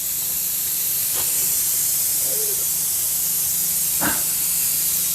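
Oil extractor tool hissing steadily while it sucks transmission oil out of the torque converter, with a low hum under it.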